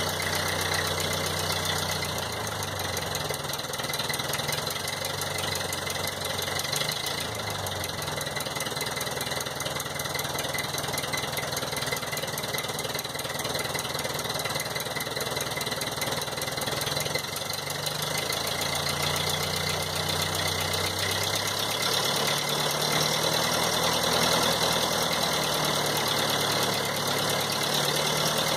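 1952 Ford 8N tractor's four-cylinder flathead engine running cold at a fast idle. Its speed drops a couple of seconds in, then picks up again about two-thirds of the way through.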